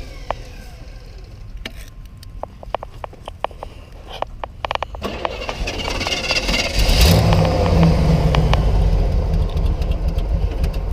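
Old Chevy four-by-four pickup engine running at idle, with a run of sharp clicks and knocks, then a much louder low rumble starting about six seconds in.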